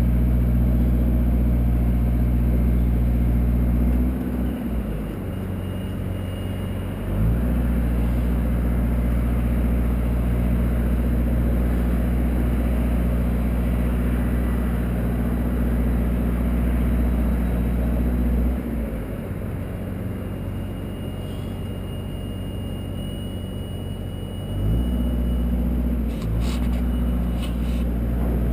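Engine of the machine hoisting the exterminator up the tower, running steadily. It drops to a lower, quieter note twice, for about three seconds a few seconds in and for about six seconds in the second half, then comes back up, as the load or throttle changes. A few brief clicks near the end.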